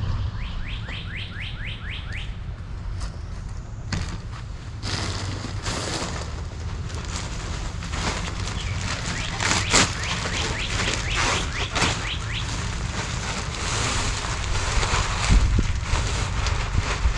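A bird gives a quick run of about eight chirps in the first two seconds. From about five seconds in comes a long stretch of irregular rustling and crunching.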